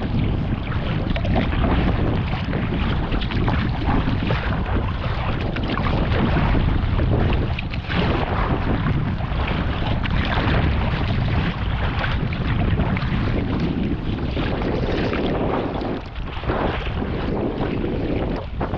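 Wind buffeting the microphone over water splashing and lapping around a kayak being paddled.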